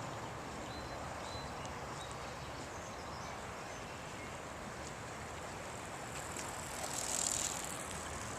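Steady rush of the fast-flowing Boise River, with a brief louder hiss about seven seconds in.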